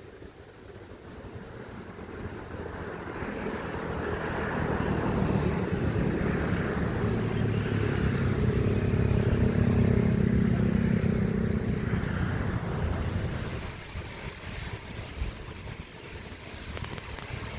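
Jet airliner's engines, a Lion Air Boeing 737, passing by on landing approach: a steady engine hum that builds, is loudest about midway, then fades away near the end.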